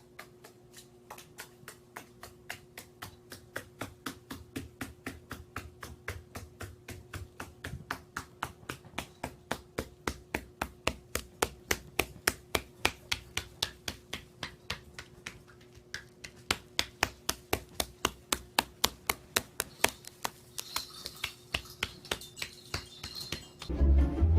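A long run of sharp taps or clicks, about three to four a second, over a faint steady hum; a hiss joins near the end.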